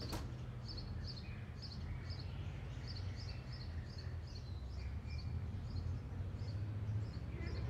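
Outdoor street ambience: small birds chirping in short notes, two or three a second, over a steady low rumble. A single sharp click right at the start.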